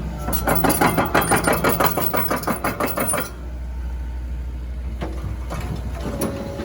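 Komatsu PC138US-11 excavator's diesel engine running. For the first three seconds a fast, even clatter of about six knocks a second sounds over it, then stops abruptly, leaving the engine running steadily.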